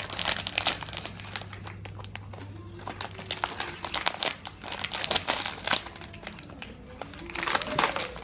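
Crinkly plastic snack packets being handled and opened by hand, with irregular crackling of the wrappers.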